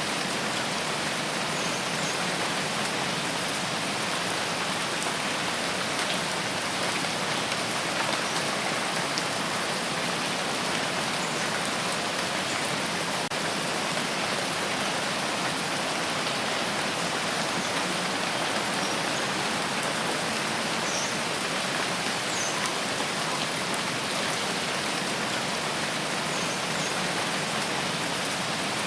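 Steady rain falling, a dense, even patter that does not let up.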